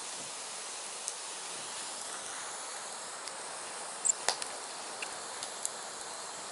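Firewood burning with a steady hiss and scattered sharp crackles and pops; the two loudest pops come about four seconds in.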